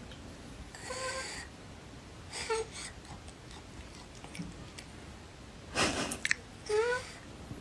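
A cat giving a few short, wheezy mewing calls, the last one near the end louder and arching up and down in pitch. A short breathy burst comes about six seconds in.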